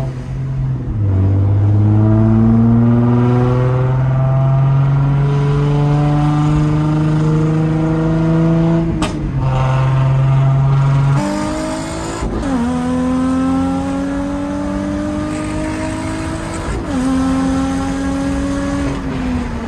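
Nissan Z's V6 engine pulling through the gears under acceleration: the pitch climbs steadily in each gear and drops at each upshift, about four times, then falls away near the end.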